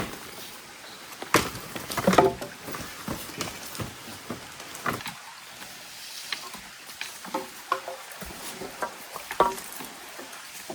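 Irregular knocks and clatter, some with a short ringing tone, over a faint steady hiss.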